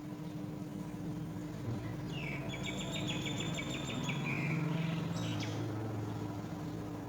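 Young birds calling at the nest: a rapid run of high chittering notes lasting about three seconds, starting a couple of seconds in, over a steady low hum.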